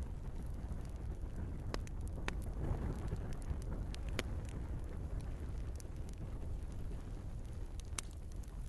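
Wood fire burning in a fireplace: a steady low rush of flames with scattered sharp crackles and pops, the sharpest about four seconds in and near the end.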